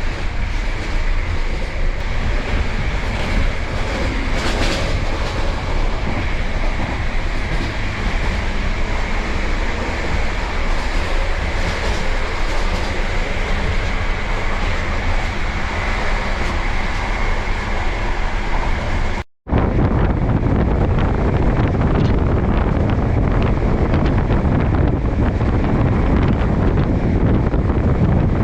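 Bulgarian passenger train running, a steady rumble of wheels on the track and carriage noise. There is a sudden break about two-thirds of the way through, after which the rumble is deeper and heavier.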